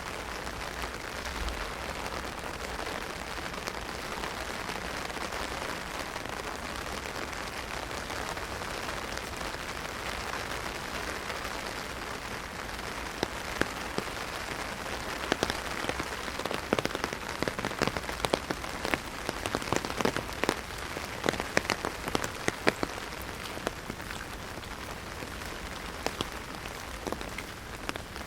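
Heavy rain pattering on an umbrella, a steady hiss of drops. From about halfway through, many larger single drops tap sharply on the canopy, thickest in the middle and thinning toward the end.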